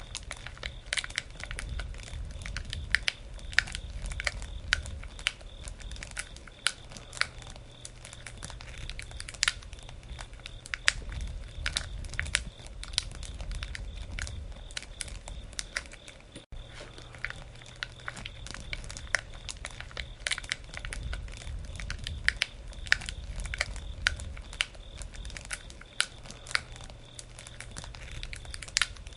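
Campfire burning with irregular crackles and sharp pops over a low rumble of flames. There is a brief gap in the sound about halfway through.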